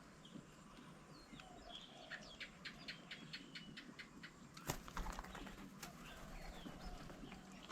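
Birds at a garden bird table: faint chirps throughout, a quick run of about a dozen sharp ticks at roughly five a second, then one loud sudden clap just past the middle.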